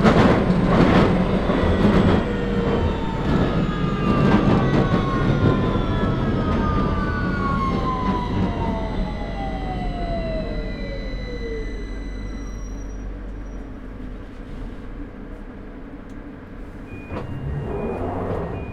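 Victoria line 2009 stock tube train's traction motors whining in a falling pitch under the rumble of the wheels as the train slows, the whine dying away about twelve seconds in. Quieter rolling follows, with a short rush and a few high beeps near the end.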